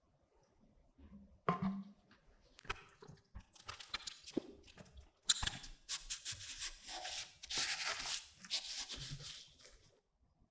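Hand work on a part: a knock about a second and a half in, then a run of irregular scraping and rubbing strokes with small clicks, stopping near the end.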